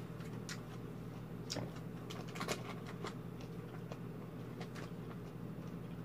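A person chewing food with scattered small wet mouth clicks, over a steady low hum.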